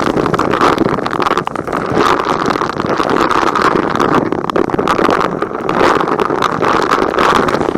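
Vacuum cleaner running steadily, with a dense crackle of small grit rattling as it is sucked up.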